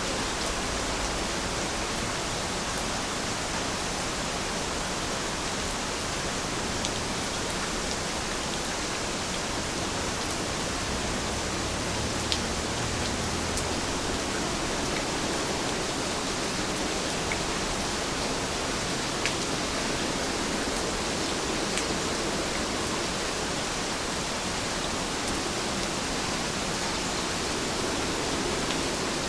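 Heavy rain falling steadily, an even hiss with now and then a single sharper drop striking close by.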